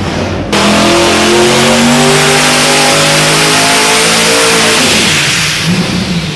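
High-performance car engine under hard acceleration, coming in suddenly about half a second in. Its pitch climbs in repeated steps, then falls away near the end.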